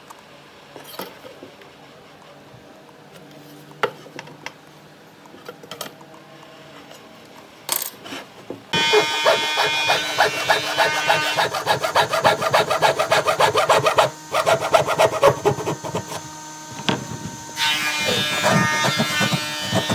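A tool working wood with a rapid run of scraping strokes, starting suddenly about nine seconds in, after a quieter stretch with a few light knocks.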